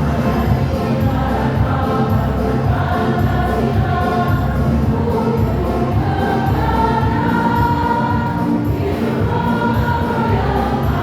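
Amateur choir singing a song in unison with accompaniment, the voices holding long notes.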